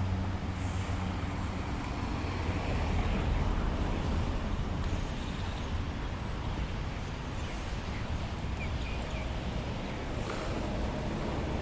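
Steady outdoor rumble and hiss, with a few faint short chirps about eight to nine seconds in.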